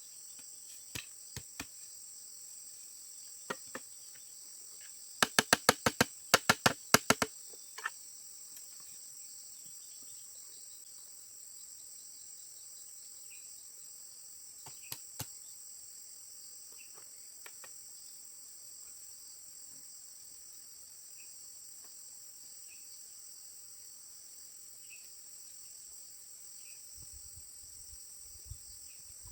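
Steady high-pitched chorus of insects, with scattered sharp knocks; a little over five seconds in comes a quick run of about ten loud knocks, roughly five a second, and two more about fifteen seconds in.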